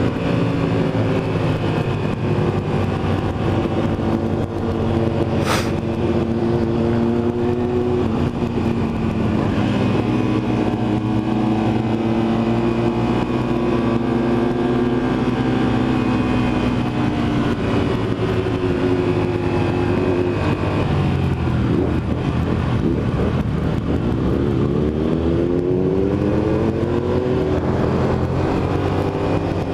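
Motorcycle engine running on the road, its pitch sinking and rising again as the throttle and gears change, over a steady rush of wind and road noise. Near the end it picks up speed with a clear rise in pitch.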